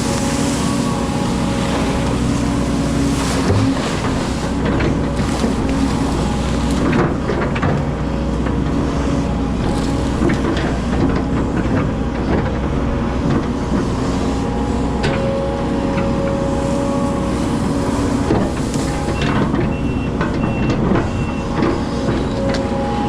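Excavator's diesel engine running steadily, with frequent knocks and clanks from the machine at work.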